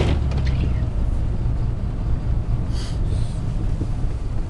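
Cummins 5.9-litre inline-six turbo diesel of a Dodge Ram 3500 running under way, a steady low rumble with road noise heard from inside the cab. Two short hisses come about three seconds in.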